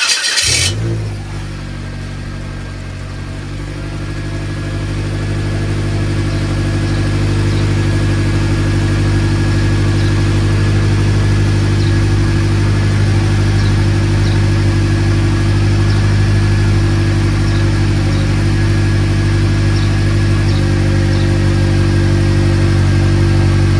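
A 2009 Mitsubishi Lancer's four-cylinder engine starting up. It catches with a brief loud burst at the very start, then idles steadily, growing somewhat louder over the first several seconds.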